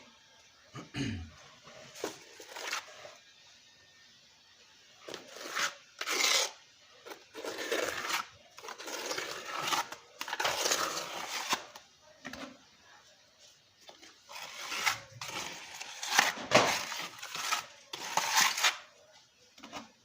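Metal trowel working sand-cement mortar: irregular scrapes and sharp clinks and knocks as mortar is scooped and thrown onto the brickwork.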